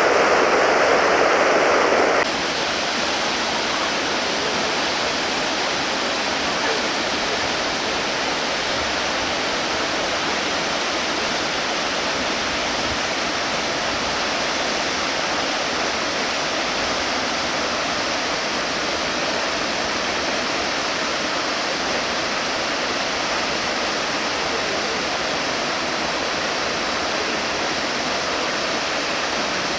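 Waterfall roaring steadily: the even rush of a large volume of falling water. It steps down in loudness once, about two seconds in, and then holds steady.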